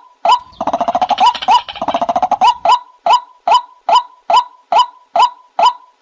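White-breasted waterhen calling: a short rising 'kwak' note repeated evenly about two and a half times a second. A fast rattling chatter runs over it for about two seconds near the start.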